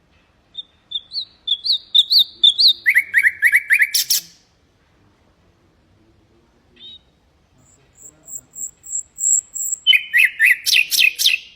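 Common nightingale singing: a phrase of repeated rising notes that breaks into fast rattling trills, a pause, a run of high thin whistled notes, then another quick trilled phrase near the end.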